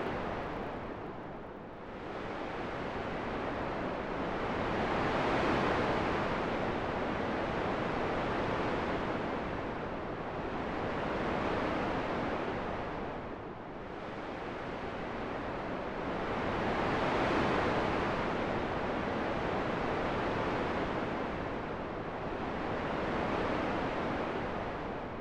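Wind, a rushing hiss that swells and eases in slow gusts, dipping about every twelve seconds.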